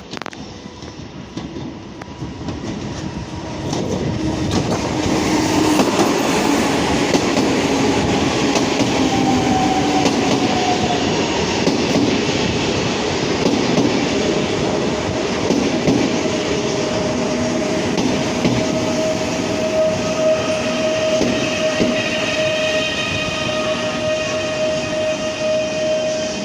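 Two coupled PESA Dart ED161 electric multiple units moving along the track, running noise swelling about four seconds in and staying loud, with steady whining tones in the second half.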